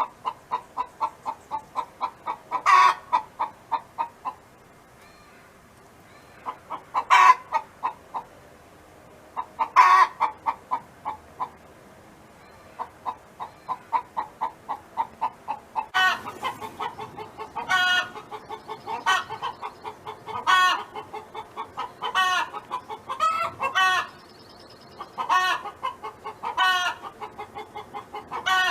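Domestic hen clucking in rapid runs of short clucks, about four a second, broken every few seconds by a louder drawn-out squawk, the hen's "song".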